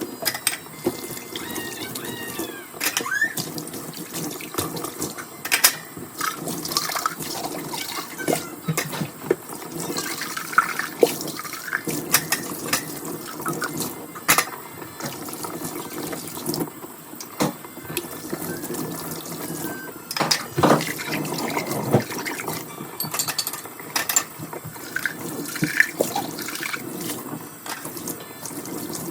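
Dishwashing at a kitchen sink: running tap water with frequent clinks and knocks of dishes and utensils being handled.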